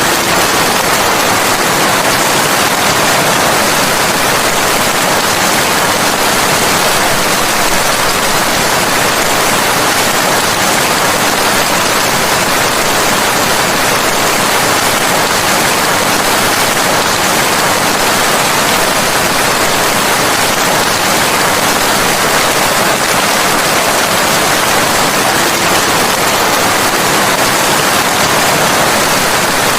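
Steady, dense rainfall: an even hiss of rain with no breaks or distinct drops standing out.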